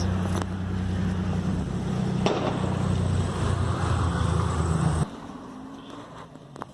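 Car engine idling with a steady low hum, and a single knock about two seconds in. The engine sound cuts off abruptly about five seconds in.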